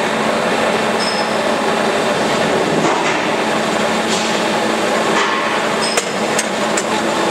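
Loud, steady machinery noise with a low hum running under it, and a few sharp metallic clicks near the end.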